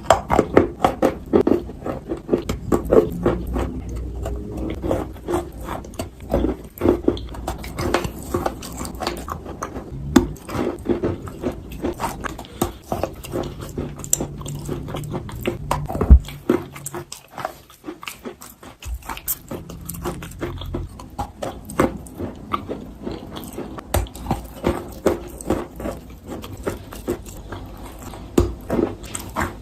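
Wet chalk being bitten and chewed: a dense, irregular run of crunches and crackles, with the loudest single crunch about halfway through.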